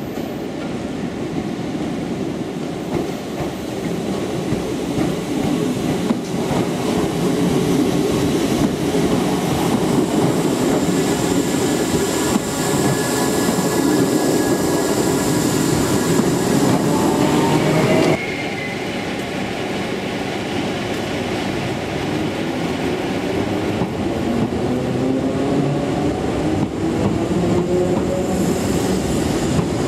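Class 314 electric multiple unit running slowly over the station pointwork, its wheels rumbling and clacking over the rail joints, with a brief wheel squeal before the sound cuts off abruptly about 18 seconds in. After the cut, a second electric train starts to pull away, its motor whine rising steadily in pitch as it accelerates.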